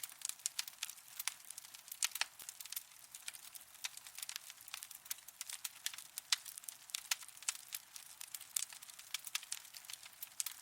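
Wood fire burning in a fireplace, crackling with many sharp, irregular pops over a soft hiss.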